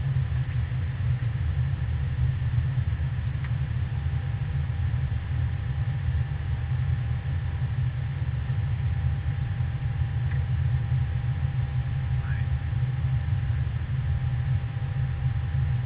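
Airbus A320 jet noise: a steady low rumble with a faint steady hum above it.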